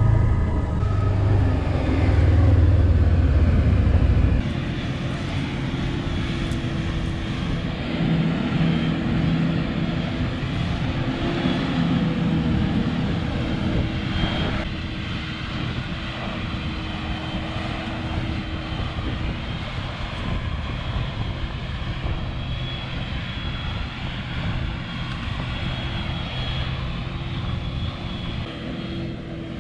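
Heavy engine running steadily, with a fixed drone and a faint high whine over it; a deep low rumble drops away about four seconds in.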